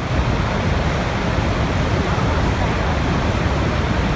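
Water running steadily, a dense even noise with no break.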